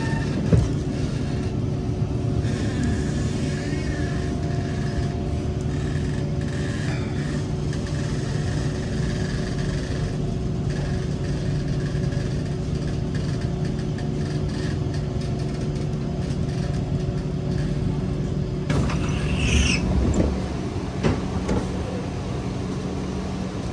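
Steady low rumble and electrical hum inside a Kawasaki C151 metro train car. About 19 seconds in there is a short louder burst of higher-pitched noise and a couple of knocks.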